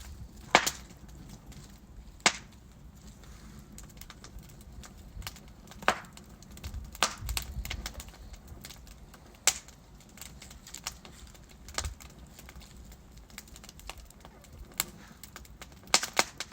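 Wood fire burning in a fireplace: logs crackling with irregular sharp pops and snaps over a faint low rumble of the flames, with a quick cluster of pops near the end.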